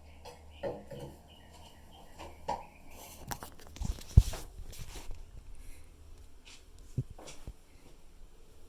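Scattered knocks and clicks of something being handled, with a brief hiss and one loud, sharp thump about four seconds in.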